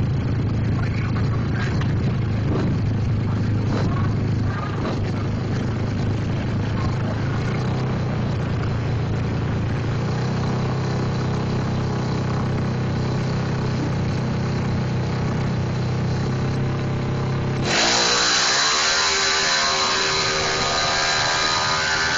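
A Suzuki Satria FU drag bike's single-cylinder four-stroke engine running steadily while the bike stands still. About eighteen seconds in, the sound cuts abruptly to a different, louder and noisier sound.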